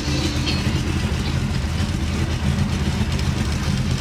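Car engine running steadily, with a low even hum from the exhaust and no change in speed.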